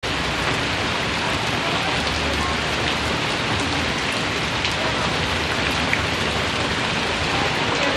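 Heavy rain falling steadily, a constant hiss with scattered sharp drop hits.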